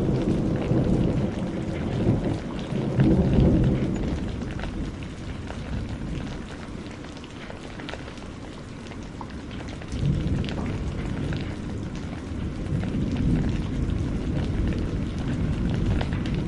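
Steady rain with sharp scattered crackles of burning firewood, and low rumbles swelling up at the start and again about ten seconds in.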